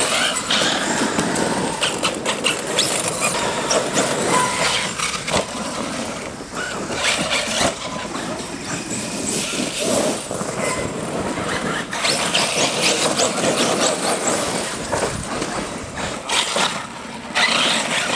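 Small-scale RC trucks driven fast over rough dirt and rock, their motors and tyres scrabbling, with many small knocks and clatters as they bash over the terrain.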